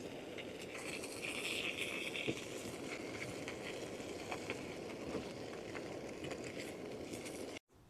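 Faint steady outdoor noise with scattered small ticks, cut off abruptly near the end.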